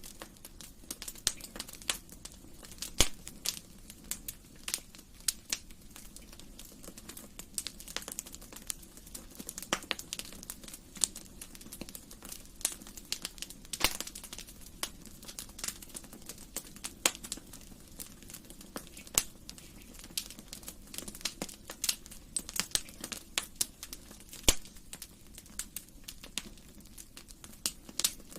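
Wood fire in a fireplace crackling: irregular sharp pops and snaps, several a second, over a low steady hiss of burning.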